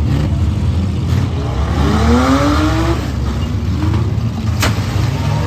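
Several demolition derby cars' engines running and revving together, one engine rising in pitch about two seconds in. A single sharp bang comes near the end.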